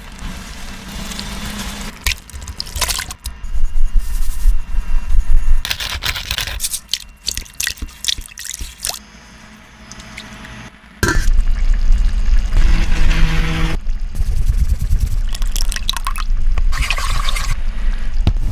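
Cooking sounds: a liquid pouring and dripping, with wet squishing and scraping, and a sudden change of take about 11 seconds in.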